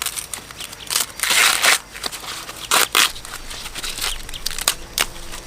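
Irregular crunching and crackling of dry material, with a longer rustling burst about a second in and several short sharp cracks after it.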